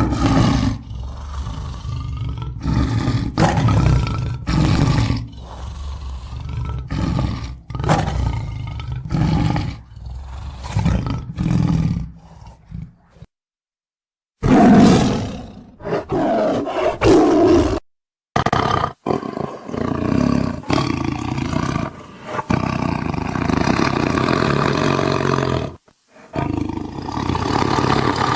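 Tiger growling loudly, first in many short growls, then in longer drawn-out stretches, as a string of spliced clips broken by brief gaps of dead silence.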